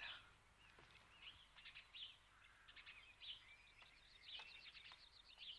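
Faint birdsong: small birds chirping again and again, with short trills.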